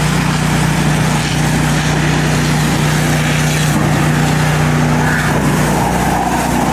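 Gasoline pressure washer engine running steadily, with a constant hiss over it.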